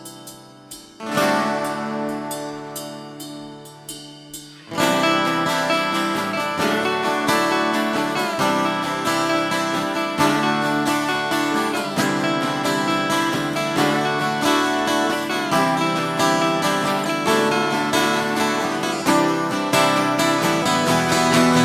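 Instrumental break of an acoustic band song, led by acoustic guitar. A chord rings out and fades at the start, a lighter passage follows, and about five seconds in a full, steady strummed rhythm takes over.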